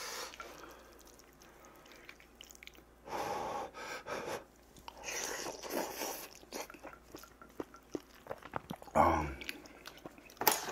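A man chewing and eating rice mixed with cheonggukjang (fermented soybean stew): wet mouth and smacking noises, with a spoon clicking and scraping in a stainless-steel bowl. A brief louder thud comes about nine seconds in.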